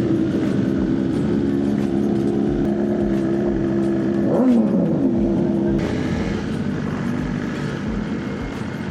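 Superbike engines idling loudly, among them a BMW S1000RR with a full titanium exhaust system. One engine rises and falls in pitch briefly about four and a half seconds in. The sound thins out and drops a little after about six seconds.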